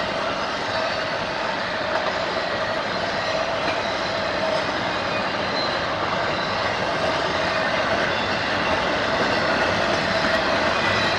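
Train rolling past, a steady, unbroken noise of steel wheels running on the rails.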